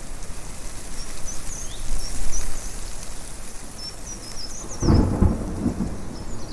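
Thunder rumbling, starting suddenly about three-quarters of the way through and running on as a deep rumble. Before it, small birds chirp in quick high twitters over a steady rushing hiss.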